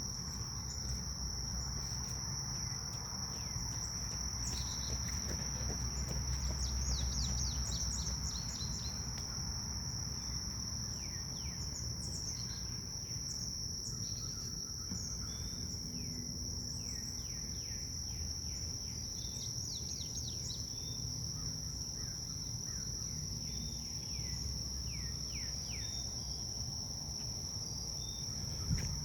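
Grass insects keep up a steady, high-pitched trill throughout. Small birds add clusters of quick, falling chirps several times. Underneath runs a low rumble of wind.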